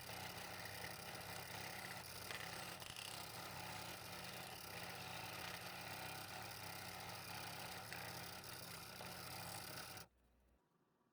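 A small electric power tool running steadily, a motor hum under a scraping hiss, which stops abruptly about ten seconds in.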